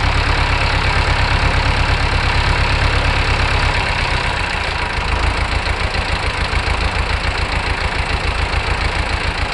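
Long 900 tractor's diesel engine running steadily with an even firing pulse, its note shifting slightly about four seconds in. The engine runs well on a freshly refitted injector pump that does not yet give full RPM.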